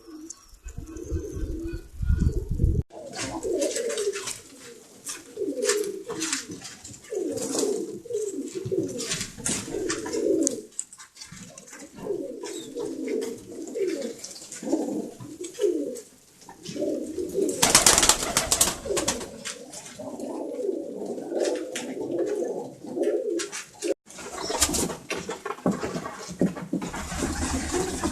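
Domestic pigeons cooing over and over in short rolling phrases, with scattered light clicks and a louder burst of noise about eighteen seconds in.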